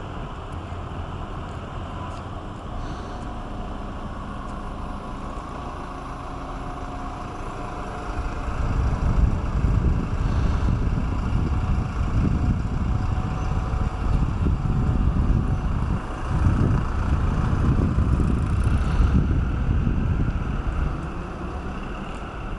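Low outdoor rumble that turns into gusty wind buffeting the microphone about a third of the way in, louder and uneven, easing near the end.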